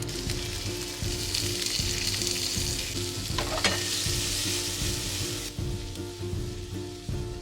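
Food sizzling in a hot frying pan, with a sharp scrape of a utensil stirring it about three and a half seconds in. The sizzle eases off a little after five seconds in.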